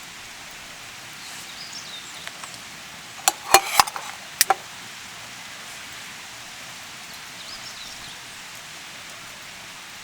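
Steady rain falling. A little over three seconds in, a quick cluster of about five sharp knocks or clicks comes within about a second and a half.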